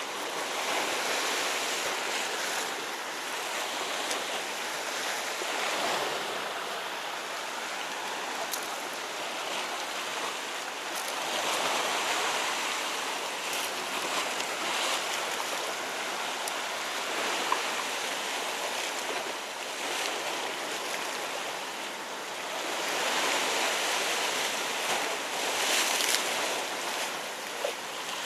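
Sea waves washing against a rocky shore, a steady rushing that swells and eases over several seconds, with a few faint clicks.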